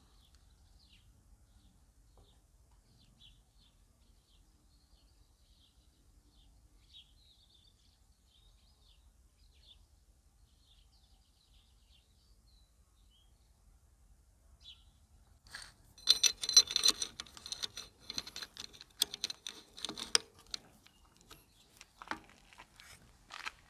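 Faint bird chirps for the first fifteen seconds or so. Then a loud jangling clatter of ringing metal begins: a roller-chain variator holder and metal tools being handled and fitted around a scooter's variator fan. Scattered clanks follow near the end.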